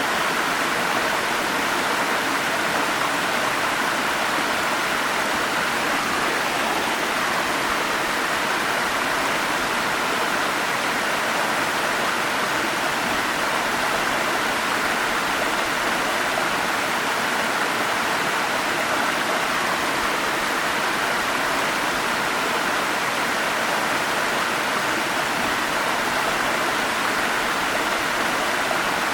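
Forest stream running steadily, an even, unbroken rush of flowing water.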